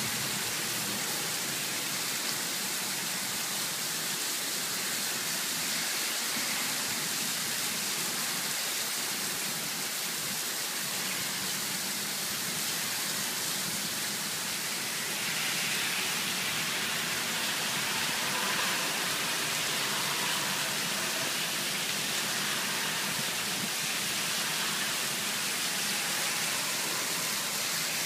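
Heavy rain pouring down on pavement and parked cars: a dense, steady hiss that grows a little louder about halfway through.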